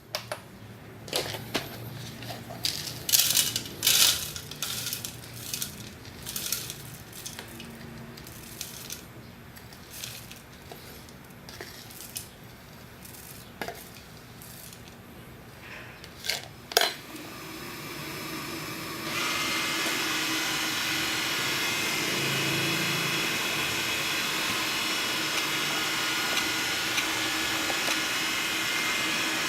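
Scattered clicks and knocks of hard plastic parts being handled. About 17 seconds in, a vacuum motor starts up and then runs steadily.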